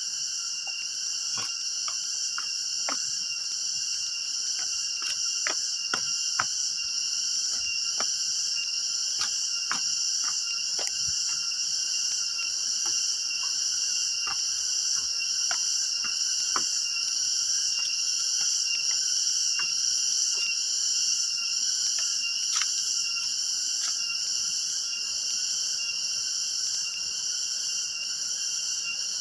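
A steady, shrill chorus of forest insects buzzing at several high pitches, with scattered light clicks and scuffs over it.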